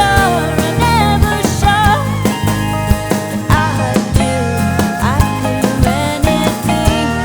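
Alt-country band playing, with guitars over a steady drum beat and some singing.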